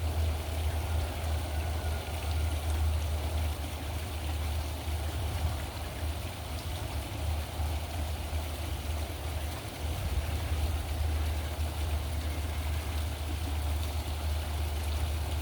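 Small pool fountain splashing and trickling steadily, over a constant low rumble.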